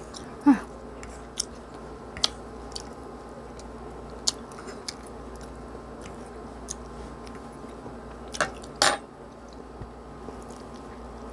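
A person chewing instant pancit canton noodles, with scattered sharp mouth clicks and light fork taps on a wooden cutting board. A brief falling 'mm' hum comes about half a second in, and a short breathy burst comes about eight and a half seconds in.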